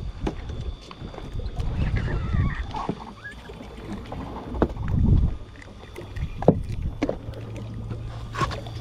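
Wind rumbling on the microphone aboard a small boat at sea, with scattered knocks and clunks on the boat. A low steady hum comes in about halfway through.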